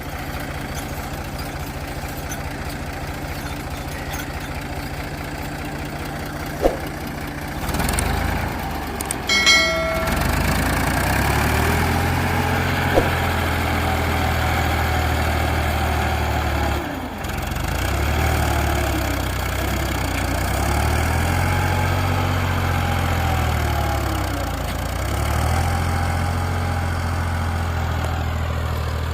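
Ford 3610 tractor engine running steadily, then from about ten seconds on its pitch repeatedly sags and recovers as it works under load, pulling a cultivator through hard ground. A brief ringing tone sounds about nine seconds in.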